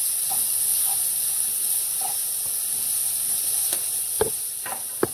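Chopped onion, green capsicum and tomato-paste masala sizzling steadily in oil in a pan while a spatula stirs and scrapes through it, with two sharp knocks near the end.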